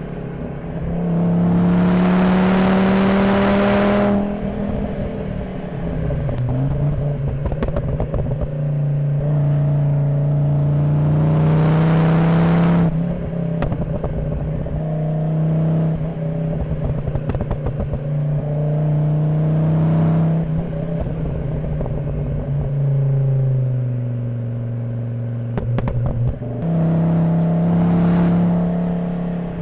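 Volvo 850 T5's turbocharged 2.3-litre inline-five (B5234T3) heard at the tailpipe through a Magnaflow exhaust, pulling hard in several bursts of throttle and easing off between them. The engine note shifts pitch with speed, and scattered crackles come between the pulls.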